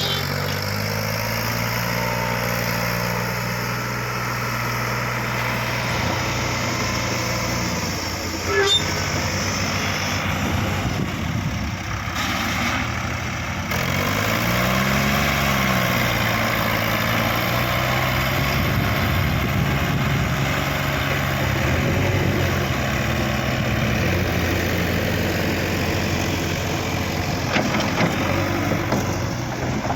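Heavy diesel engine running steadily, revving up and back down once about halfway through.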